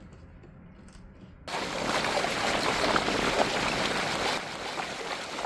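Faint room tone, then about a second and a half in, a steady rush of water starts suddenly, as water streams along the hull of a boat under way.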